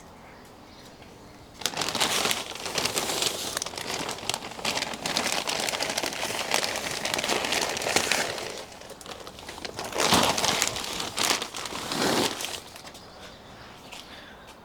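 Dry plant debris crackling and rustling as it is handled and cleared, starting about two seconds in. It eases briefly, then comes in a few louder surges before stopping near the end.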